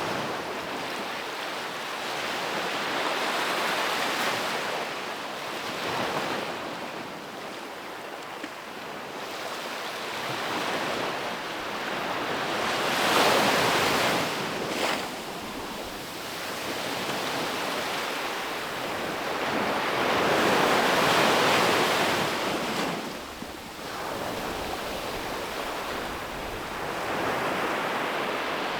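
Sea waves breaking and washing up a beach, rolling in one after another, with the loudest breakers about halfway through and again about two-thirds of the way in. Some wind on the microphone.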